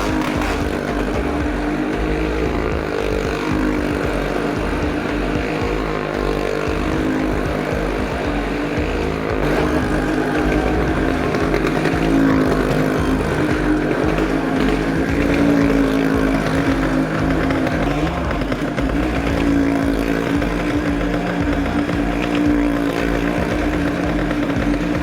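Motorcycle and car engines running together as the vehicles circle the wall of a well of death, a sustained drone that rises and falls in pitch a few times.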